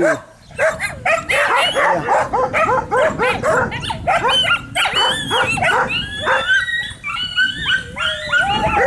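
Many dogs barking and yelping at once, a constant overlapping racket of short barks and higher yips.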